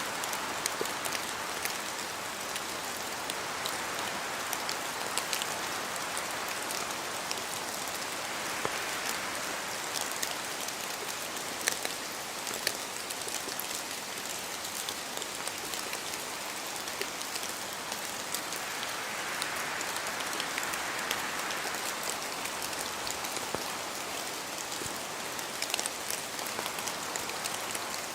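Steady rain in a forest, with individual drops falling from the trees and pattering sharply, over a constant hiss of rainfall. The rushing swells slowly about nine seconds in and again around twenty seconds, as wind gusts move through the trees.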